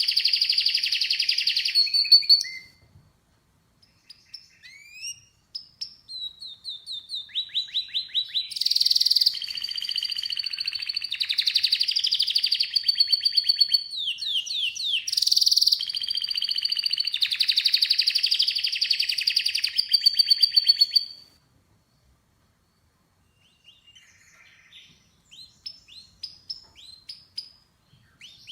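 Canary singing: long high-pitched song phrases of rapid trills and rolling notes, broken by short pauses, then short scattered chirps near the end.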